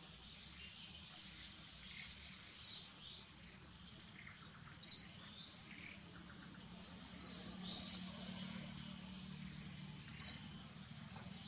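A bird giving a short, sharp, high chirp again and again, about every two seconds, five times in all, with two in quick succession near the middle. Behind it runs a faint steady high whine.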